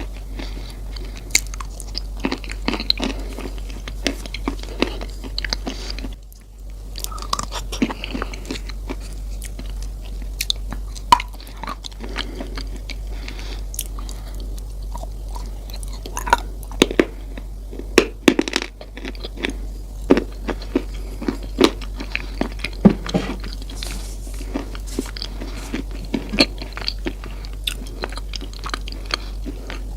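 Close-miked biting and crunchy chewing of a dry, brittle food, with sharp irregular cracks and snaps throughout. A steady low hum runs underneath.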